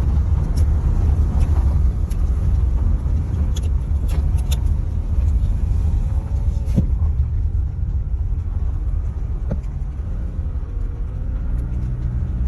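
Car driving slowly up a wooded road, heard from inside the cabin: a steady low rumble of engine and tyres, with a few light clicks and knocks now and then.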